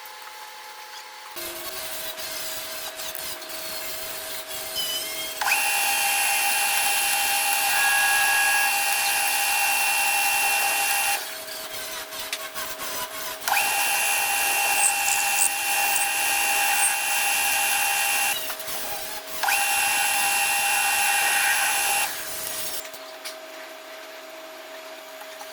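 Metalworking lathe machining a steel bolt head. The machine hums steadily, and three times for several seconds a much louder cutting noise with a steady high whine rises over it. The machine stops near the end.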